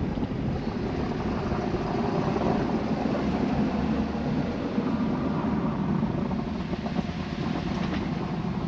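An engine running steadily under load, heard as an even, noisy rumble.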